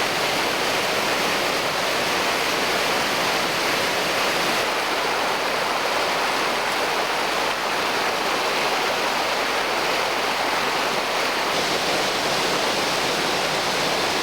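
Steady rushing of flowing water, an even hiss that holds without change.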